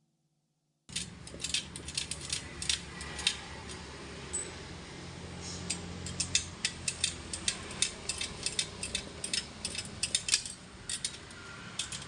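Irregular sharp metallic clicks and ticks of tools working on a spoked motorcycle wheel, several a second, over a steady low hum. They start about a second in.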